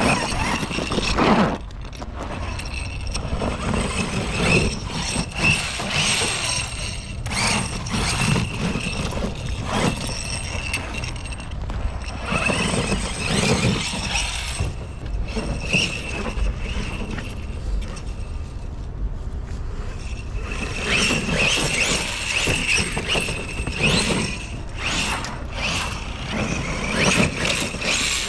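Home-built RC monster truck with a Hobbywing Max4 brushless system on 12S, driving: a high motor whine that rises and drops away again and again with the throttle, over a steady low rumble from the drivetrain and tyres.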